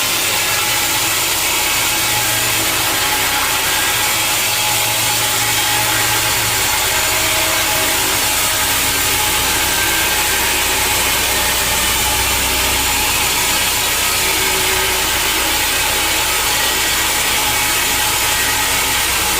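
A sawmill saw cutting steadily through a large log, a continuous loud hiss of blade in wood over the low running hum of the machine's motor.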